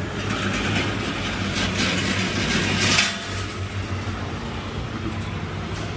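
An engine running steadily with a low, even hum. Several hissing noise bursts come over it in the first half, the loudest about three seconds in, and then the engine runs on alone.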